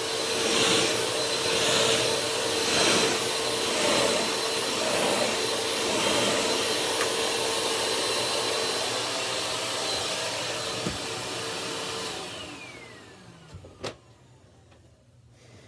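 A small Bissell Power Force bagless vacuum cleaner running on a bed. Its sound swells and fades about once a second in the first few seconds as it is pushed back and forth. About twelve seconds in it is switched off and the motor winds down with a falling whine, followed by a single sharp click. It runs without picking anything up, and the owner thinks it probably has no belt on its brush.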